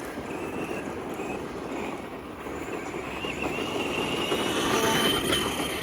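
Electric motor of a Tamiya King Blackfoot RC monster truck whining as it drives, the pitch climbing steadily as it speeds up through the second half, over a steady rushing noise.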